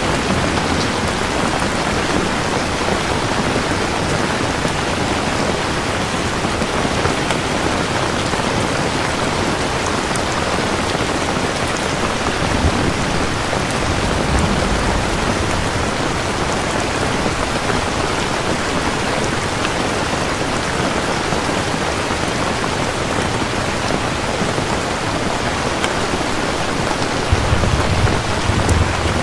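Steady heavy rain falling on a surface, with a low rumble of thunder near the end.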